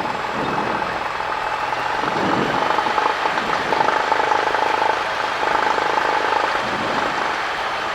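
Cessna 172's engine running at low power, heard from inside the cockpit as the plane taxis.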